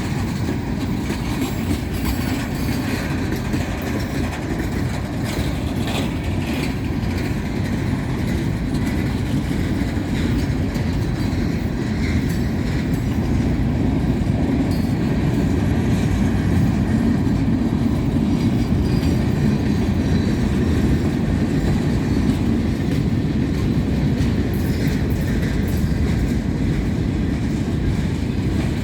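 Freight train cars rolling past at speed: a steady rumble of steel wheels on rail with occasional faint clicks from the rail joints.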